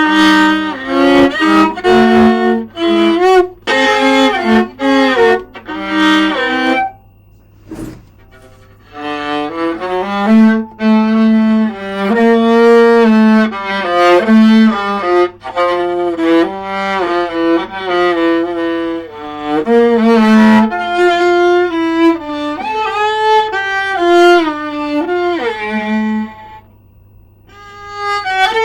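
Solo viola playing a bowed melody in phrases of sustained notes. It breaks off briefly about seven seconds in and again near the end.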